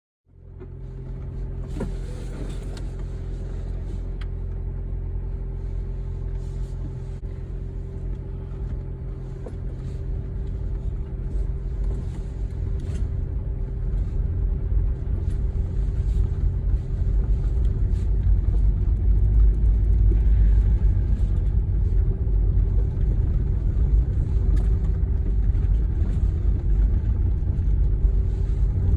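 Car in motion: a steady low engine and road rumble with a constant hum, growing louder over the first twenty seconds or so and then holding.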